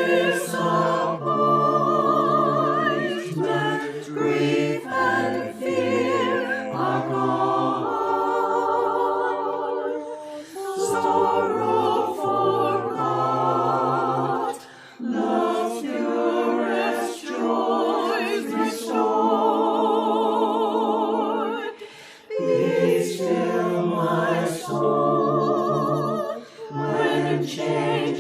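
Choir singing unaccompanied, held notes with vibrato in phrases broken by short breaths.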